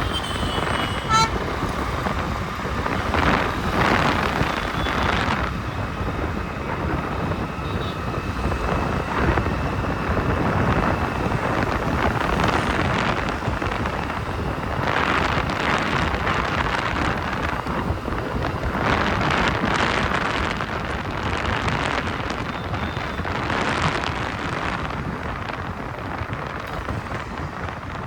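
Road and traffic noise from a moving motorcycle, with wind buffeting the microphone and swelling several times. A vehicle horn sounds briefly about a second in.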